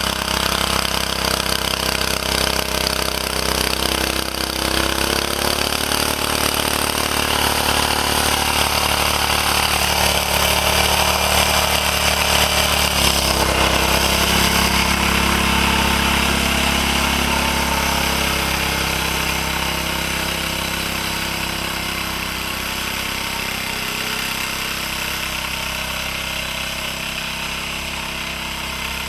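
Engine of a 1949 Bready walk-behind tractor running steadily while plowing heavy wet snow. Its note shifts about five seconds in and again near the middle, and it eases off slightly toward the end.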